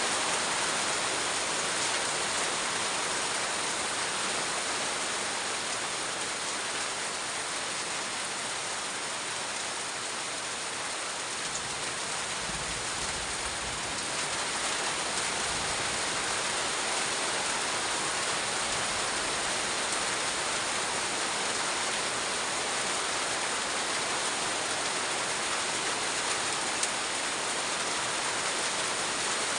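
Heavy rain falling steadily, a dense even hiss of drops on surfaces, with a brief low rumble about halfway through.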